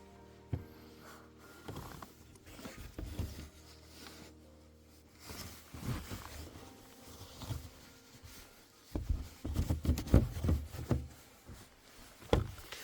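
Scattered rustling and soft knocks of thick blankets being handled and tucked around a car's engine bay, getting busier near the end.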